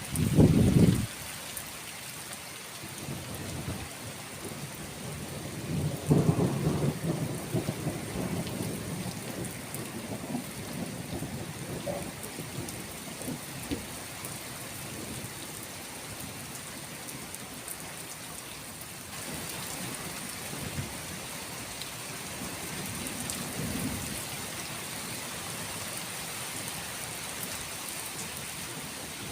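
Thunderstorm: steady rain hissing throughout, with a sharp low thunder crack in the first second, a longer rolling rumble starting about six seconds in, and a fainter rumble near the end.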